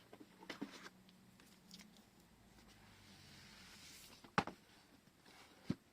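Quiet desk-side handling of washi tape rolls and paper: a few small clicks and taps, a soft hiss that builds over about a second, then two sharp knocks, one about four and a half seconds in and one near the end.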